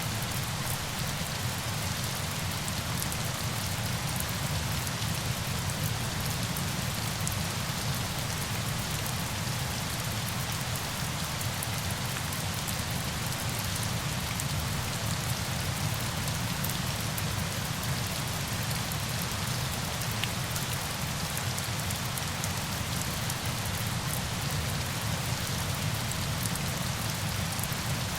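Steady, even rush of falling water with fine scattered patter, unchanging throughout.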